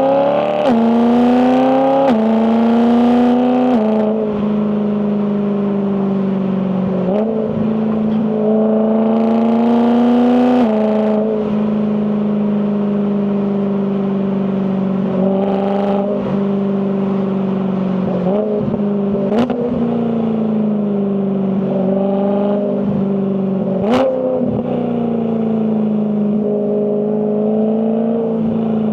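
BMW E92 M3's 4.0-litre S65 V8 under acceleration, its revs climbing and dropping sharply three times in quick succession in the first few seconds as the dual-clutch gearbox upshifts. It then runs at fairly steady revs with brief rises and falls, two short sharp knocks in the later part, and revs falling away near the end.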